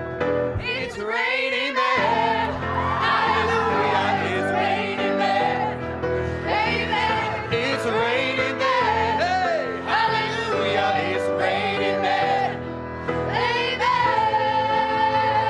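A song with sung vocals over band accompaniment; the lead voice ends on a long held note.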